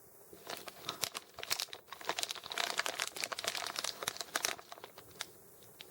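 Plastic candy wrapper crinkling as the sealed M&M's bag is handled and turned over, a dense run of irregular crackles that dies away about four and a half seconds in.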